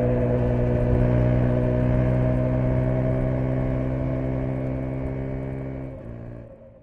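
2017 KTM 125 Duke's single-cylinder four-stroke engine running at steady, fairly high revs while riding. The level sinks gradually, then fades away quickly near the end.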